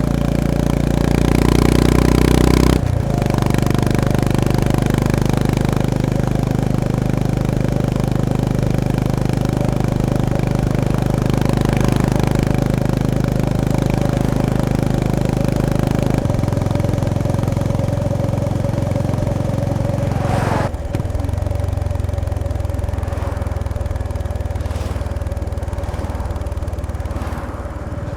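Honda GB350S (CB350RS) 348 cc air-cooled single-cylinder motorcycle engine and exhaust running under way. The engine note changes abruptly three times: about three, sixteen and twenty-one seconds in.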